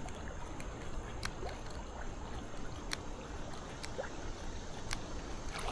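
Steady rush of a flowing creek, with a low wind rumble on the microphone and a few faint ticks.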